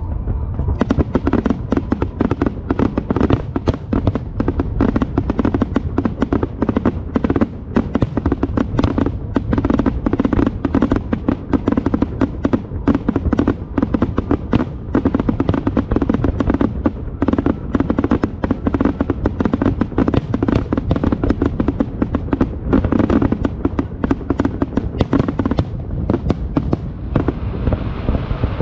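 Fireworks display going off in rapid succession: dense crackling bursts, many per second, over a continuous low rumble of booms. The crackling thins out near the end.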